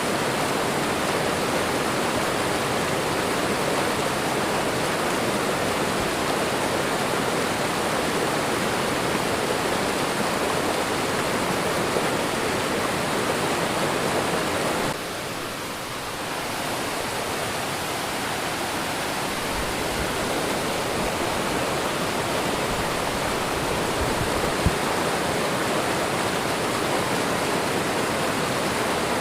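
Waterfall, a steady rush of falling and running water. About halfway through it drops suddenly a little quieter, then swells back up over a few seconds.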